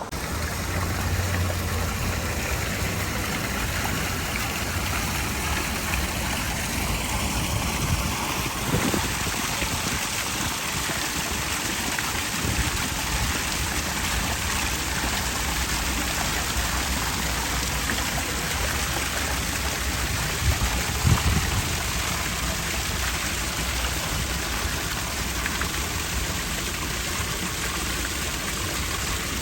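Steady rushing water noise, even and unbroken, changing texture about eight seconds in, with a couple of faint low thumps near the end.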